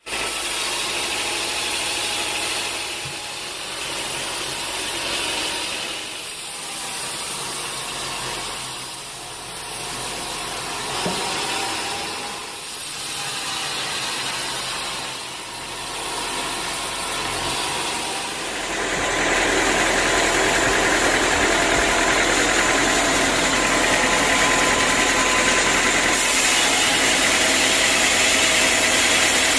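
Sawmill machinery running: an engine with a noise that swells and fades every few seconds, then louder and steady from about two-thirds of the way through.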